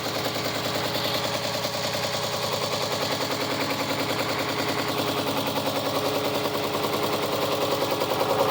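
1973 Volvo D4 marine diesel engine running in neutral shortly after a cold start, with a rapid, even clatter. It gets slightly louder near the end.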